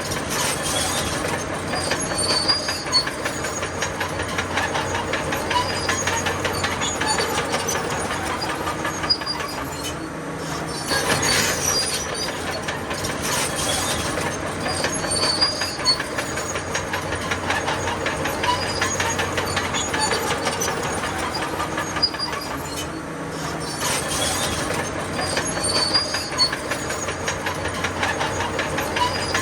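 Crawler bulldozer working: its diesel engine runs under load while the steel tracks clank and squeal continuously. The noise swells about every twelve seconds.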